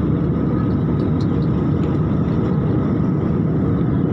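Steady cabin noise of an airliner in flight, a constant low rumble of engines and rushing air.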